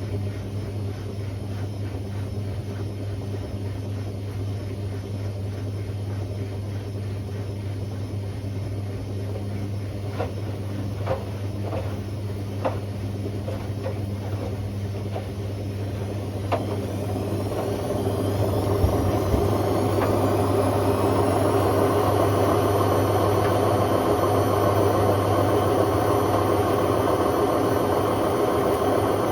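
Hotpoint Aquarius WMA50 washing machine running with a steady hum and a few sharp clicks partway through. About two-thirds of the way in, the motor winds up into a spin: a rising whine that levels off into a loud, steady high-speed spin.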